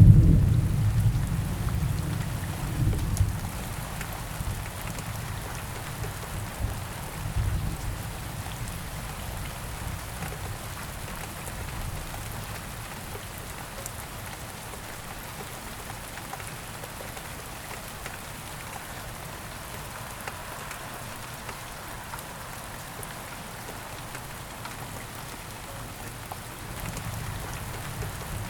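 Steady rain falling, an even hiss of drops on a surface. A low rumble of thunder rolls through in the first few seconds and dies away, with a fainter swell again around eight seconds in.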